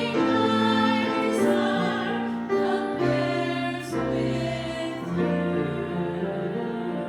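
Hymn sung by several voices with instrumental accompaniment.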